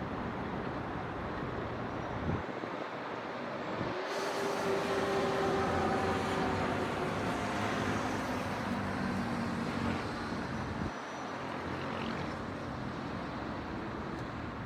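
Steady city traffic noise at a distance. About a third of the way in, a louder vehicle swells up with a faint engine tone and passes, fading back into the general traffic hum after several seconds.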